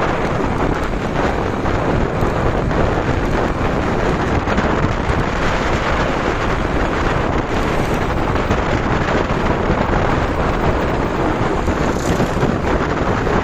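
A motorcycle running, mostly covered by a steady rush of wind buffeting the microphone.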